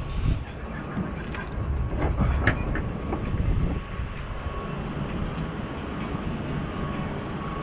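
A motor running with a steady low rumble and a faint constant whine, with a cluster of knocks and rattles between about one and four seconds in.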